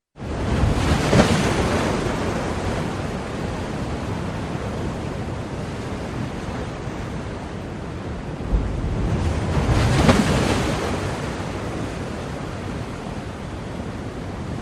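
Ocean surf: a wave breaks about a second in and another about ten seconds in, with a steady wash of water between.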